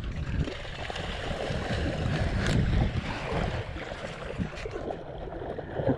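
Lake water splashing and lapping, with wind buffeting the action camera's microphone.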